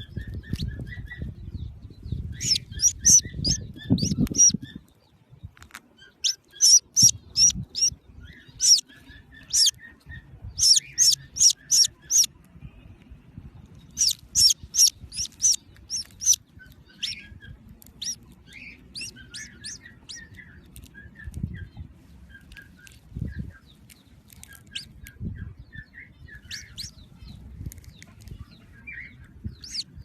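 A baby bird chirping: quick runs of high, shrill chirps at about four or five a second, coming in bursts, with softer, lower peeps between them. A low rumble of handling sits under the first few seconds, and there are a few soft bumps later on.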